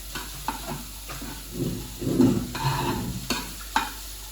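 Food sizzling in a pan while it is stirred, with a couple of sharp clicks of a utensil against the pan a little after three seconds in.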